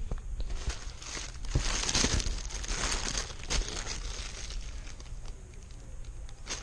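Mail packaging being handled: irregular crinkling and rustling with small clicks.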